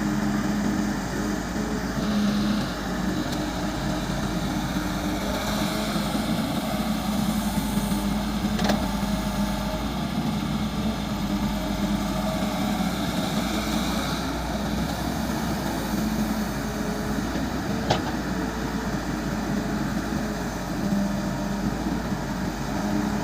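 Caterpillar excavator's diesel engine running steadily at an even pitch, with a sharp knock about nine seconds in and another about eighteen seconds in.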